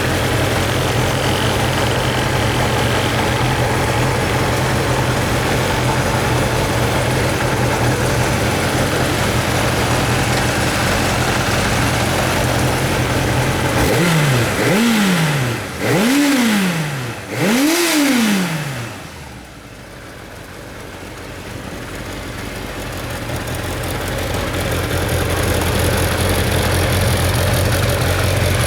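Kawasaki Zephyr 750's air-cooled inline-four idling steadily, then blipped three times in quick succession, each rev rising and falling back cleanly, which shows the engine revs up well. After the third blip the sound drops away for a few seconds, then builds back up to a steady idle.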